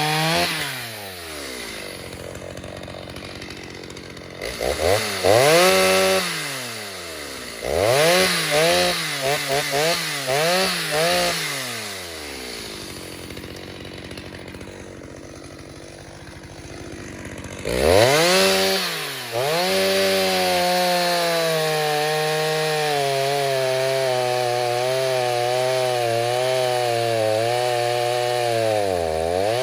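Rebuilt Stihl 029 chainsaw with a 45 mm cylinder: it comes out of a cut and drops to idle, is revved in short blips several times, then goes back into a long steady cut in wood, its pitch wavering under load.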